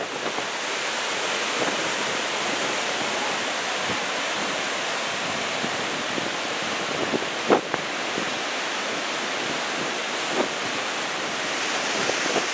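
Heavy surf breaking steadily on a sandy beach, the rough sea stirred up by a passing typhoon, with wind on the microphone. A short thump about halfway through.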